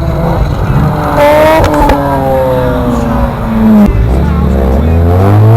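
Mazda RX-8's twin-rotor rotary engine through a Greddy exhaust: the revs fall away for a couple of seconds with a few sharp cracks, break off about four seconds in, then climb again as the car accelerates.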